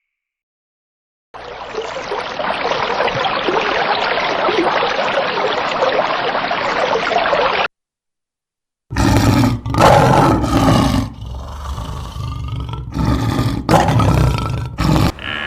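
A steady noisy hiss for several seconds, then, after a short silence, a large animal roaring in several loud bursts.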